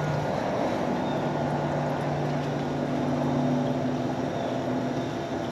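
Small water pump running steadily with a low hum, pumping water through a race car's radiator and cooling system to flush it.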